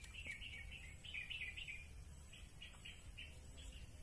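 A bird chirping, a quick run of short repeated notes about three or four a second, over a faint steady low rumble of background noise.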